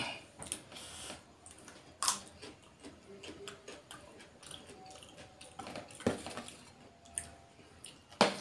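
A person eating up close: chewing and mouth noises with scattered short clicks and smacks, the loudest at the start and about two seconds in, plus light taps of fingers and food on plates as salad is picked up.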